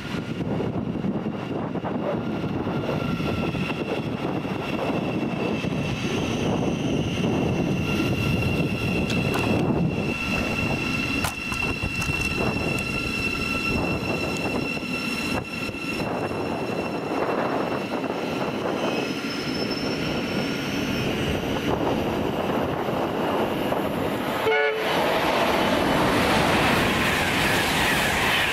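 Train running past on the main line: a steady rush of wheel and rail noise with a high whine held over much of it. There is a brief break about 25 seconds in, after which the noise is louder.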